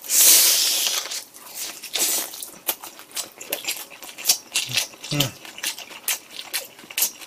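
Close-up mouth sounds of a man eating a sauce-dipped bite of breaded pizza tonkatsu. A second-long hiss as the bite goes in is followed by a run of sharp, irregular crunches and wet mouth clicks as he chews, with a brief low hum about five seconds in.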